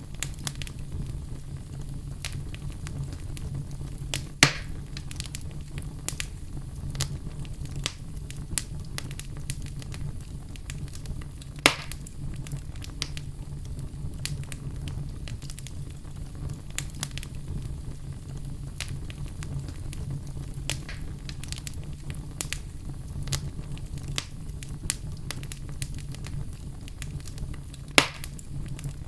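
Fire burning in a fireplace: a steady low rumble of flames under constant small crackles, with three louder sharp pops, about four seconds in, near twelve seconds, and near the end.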